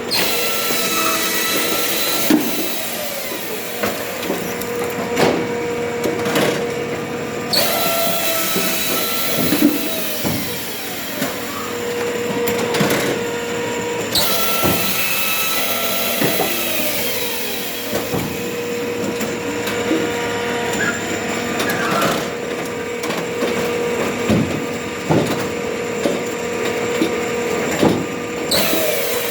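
A firewood splitter runs steadily while oak logs are split, with repeated sharp cracks and knocks of the wood breaking apart.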